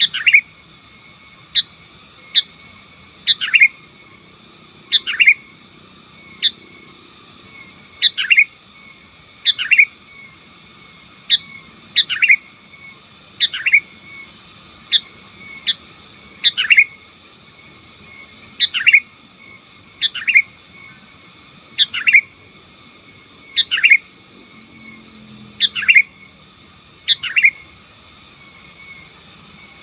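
Sooty-headed bulbul (kutilang) singing vigorously: loud, short notes that sweep down in pitch, given singly or in pairs every second or two. A faint steady high-pitched hiss runs underneath.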